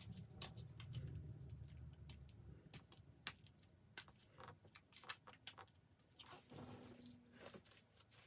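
Faint handling noise: scattered light clicks and rustles from small items and packaging being handled.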